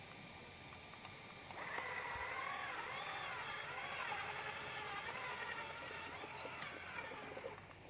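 Radio-controlled model truck's electric motor whining, its pitch rising and falling with the throttle; the whine starts about one and a half seconds in and fades near the end.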